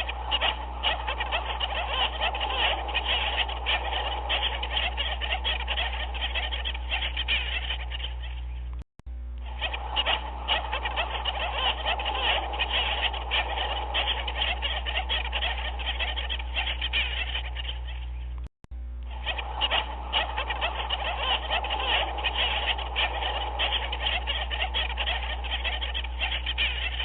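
Dense chorus of many overlapping animal calls with a steady low hum beneath. It is a short recording looped about every nine and a half seconds, cutting out for an instant at each repeat.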